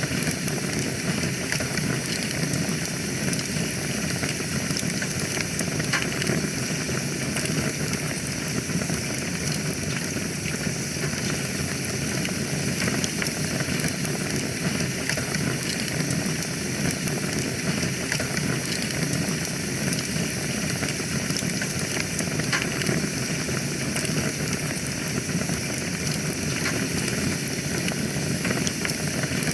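Wood fire burning in a fireplace: a steady hiss with many small scattered crackles and pops.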